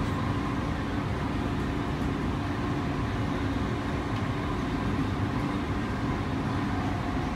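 Electric passenger train running, heard from inside the carriage: a steady rumble with a faint constant hum as it rolls past another train alongside.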